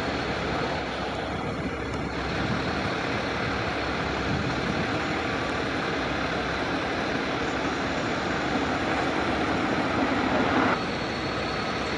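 Steady rushing background noise with no distinct events, easing slightly about eleven seconds in.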